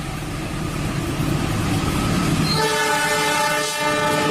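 Train sound: a steady rumbling of a running train, then a train horn starting a little past halfway and held steadily through the end.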